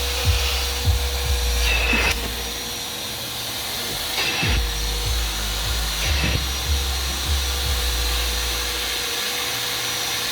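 Vacuum cleaner converted into a wet extractor running with a steady motor whine and hiss, its nozzle worked over a car seat in repeated short strokes.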